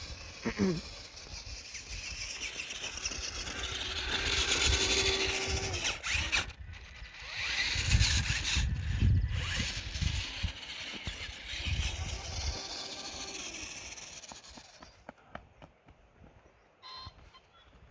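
Remote-control Grave Digger monster truck's electric motor whining, rising and falling in pitch as it drives off road, with a low rumble. It dies down about fifteen seconds in, leaving a few scattered clicks.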